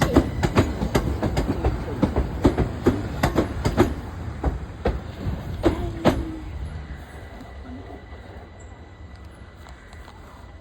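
Train wheels clacking over rail joints as a train runs past, with sharp knocks about two or three a second over a low rumble. The clacking stops about six seconds in and the rumble fades away.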